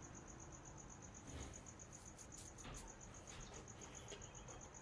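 A cricket chirping faintly, a steady high-pitched pulse of about six chirps a second. A few faint clicks sound in the middle.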